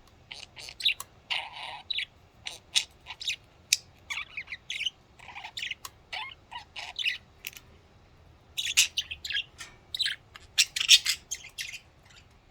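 Pet budgerigars chirping and chattering in quick bursts, with a short lull a little past the middle and a busier run of chirps near the end.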